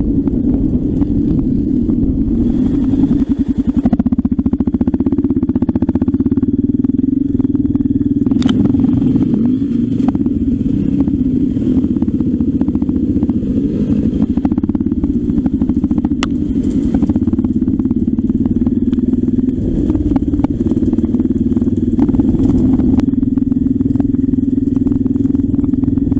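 Trail motorcycle engine running at fairly steady revs while being ridden, with frequent small clicks and clatter over it.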